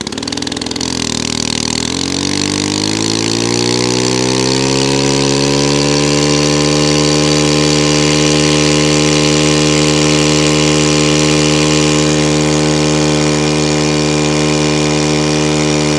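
Stihl FS91 trimmer's small four-stroke engine running on part choke during a cold start. It speeds up over the first few seconds as it warms, then holds a steady high speed.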